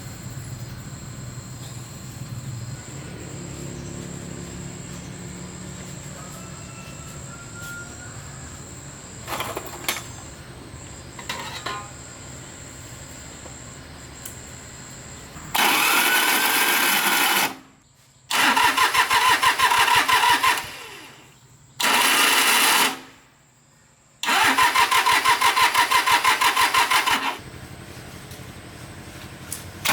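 Restored agricultural machine engine being started, heard as four loud bursts of rapid pulsing, each one to three seconds long and cutting off abruptly, after a stretch of low hum with a couple of knocks.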